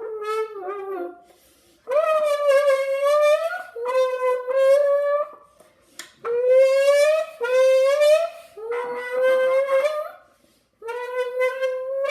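A squeezed aluminium drink can blown into by mouth like a horn, giving a string of about six buzzing, horn-like blasts, each a second or two long and rising a little in pitch, as an imitation of a Lamborghini engine revving.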